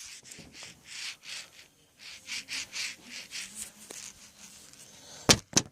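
Soft rubbing strokes, about two or three a second, then two sharp clicks near the end.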